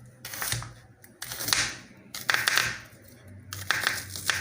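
Knife slicing through an onion on a cutting board: a series of separate crunchy cuts, roughly one a second.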